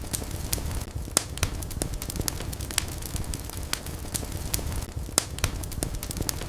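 Wood fire crackling in a fireplace: a steady low rumble of flames with many irregular sharp pops and snaps.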